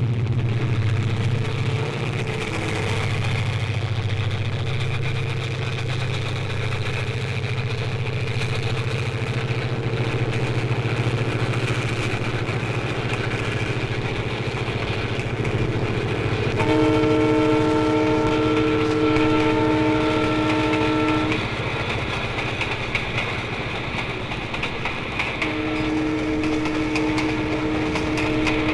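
A large vehicle engine runs steadily with a low rumble. A horn blows a steady note for about five seconds, a little over halfway through, and sounds again near the end.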